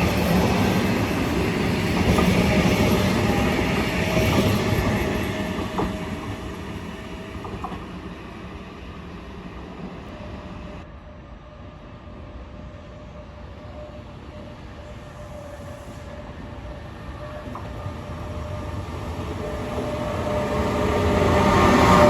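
Electric trains: an ETR621 Rock regional electric multiple unit running through, with a steady motor whine and wheel noise that die away over about ten seconds. After an abrupt change, an E464 electric locomotive-hauled regional approaches, growing louder and peaking near the end.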